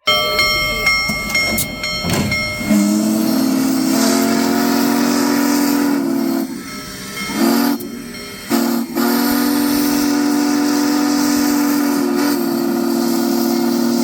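Union Pacific 4014 "Big Boy" steam locomotive's whistle sounding long, low chords over a steady hiss of steam, broken by two short gaps near the middle. A thinner, higher tone sounds in the first two seconds.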